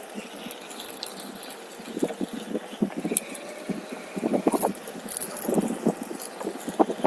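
Irregular knocks and rattles from a OneWheel electric board rolling over a rough trail, growing busier about two seconds in and heaviest around the middle.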